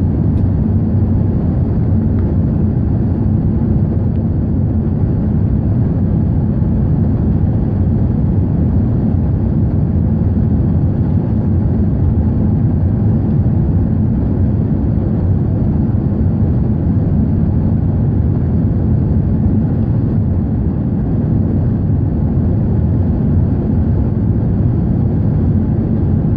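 Airbus A380 engines and airflow after take-off, a steady low rumble with no change in pitch or level.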